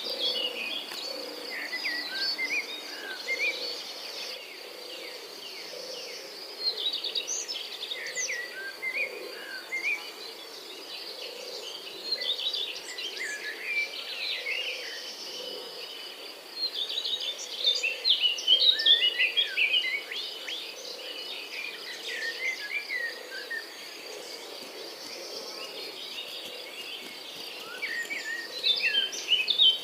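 Birds singing in repeated flurries of quick chirps and warbles over a steady, high insect buzz, the birdsong busiest in the second half and again near the end.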